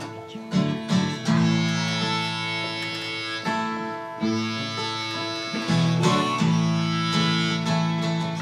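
Guitar strumming chords with a harmonica playing sustained notes over it, the instrumental lead-in to a song.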